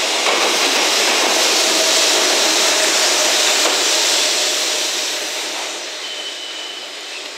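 A container freight train rolling past on the rails in a loud, steady rush of wheel and wagon noise. About five seconds in it begins to fade as the train moves away, and a faint high squeal comes in near the end.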